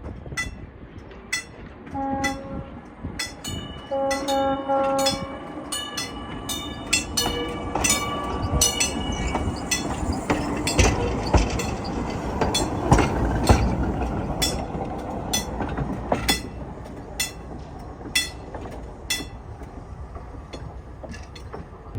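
Train horn sounding two short blasts, then a longer one, as a train approaches and passes with a rumble that swells to a peak mid-way and fades. Sharp metallic clicks repeat about once a second throughout.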